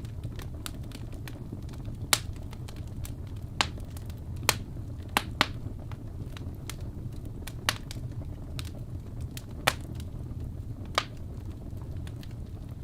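Wood fire burning in a fireplace: a steady low rumble of flames with constant small crackles and about eight sharper pops scattered through.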